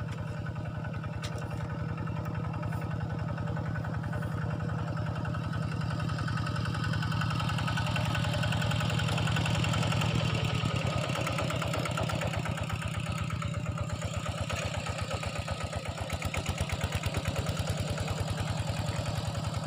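A small engine running steadily, with a rapid, even chugging that swells a little partway through.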